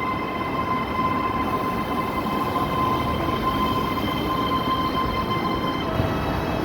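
Ivolga electric multiple-unit train running on the track: a steady rumble of wheels and running gear, with several steady high-pitched tones over it that fade about two-thirds of the way through.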